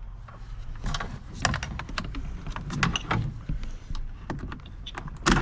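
Irregular clicks, knocks and rattles of a car door lock mechanism and its plastic and metal parts being handled and worked loose inside the door, with a louder knock near the end.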